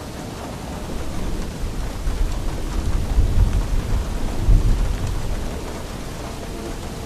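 Steady rain falling, with a deep roll of thunder that builds about a second in, peaks in the middle and dies away near the end.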